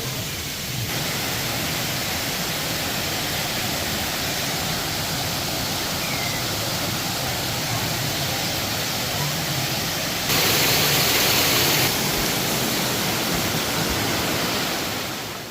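Rushing water, a dense steady hiss like a waterfall or fast stream. It gets louder for about two seconds partway through and fades out at the end.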